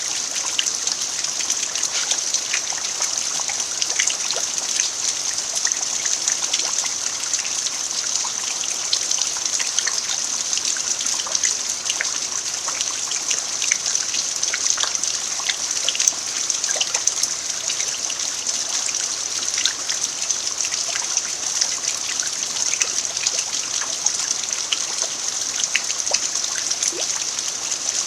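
Steady rain falling on a dirt yard: an even hiss of rain with many small drop ticks scattered through it.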